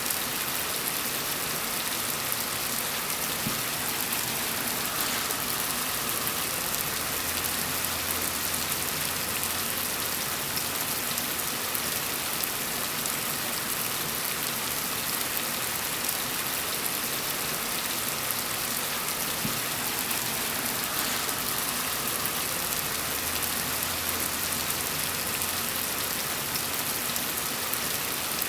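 Steady rain falling, an even hiss with no single drops or other events standing out. A faint low rumble swells and fades twice beneath it.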